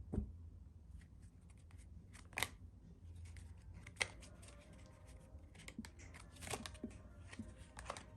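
A deck of All Star playing cards handled by hand: soft rustles and scattered small snaps and clicks of the cards, a few sharper ones spread through, over a low steady hum.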